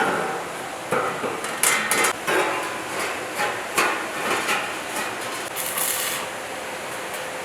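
Hand tools working material in a workshop: irregular knocks and scraping strokes, a handful of sharp strikes spread across the few seconds.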